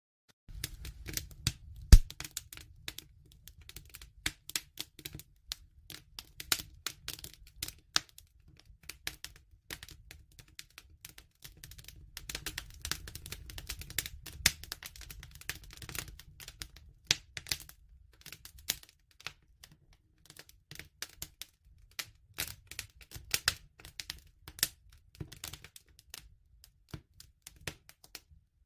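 Wood fire crackling: a dense, irregular run of sharp pops and snaps over a low rumble of burning, with one loud pop about two seconds in. It starts suddenly about half a second in, after a moment of silence.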